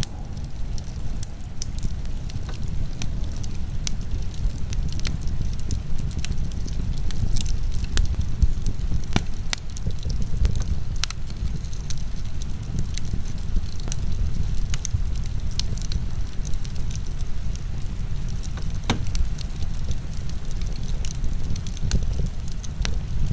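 Wood fire crackling, with irregular sharp pops and snaps scattered throughout, over a steady low rumble of heavy rain.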